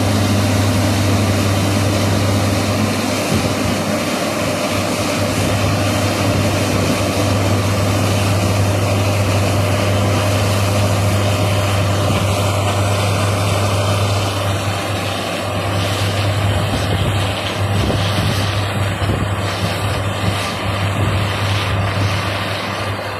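John Deere S780 combine harvester running steadily at work in a rice crop, a continuous loud low engine drone.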